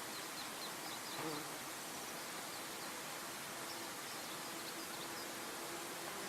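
Outdoor nature ambience: a steady, even rush of noise with faint, short, high chirps scattered through it and a faint steady hum. A brief, slightly louder call comes about a second in.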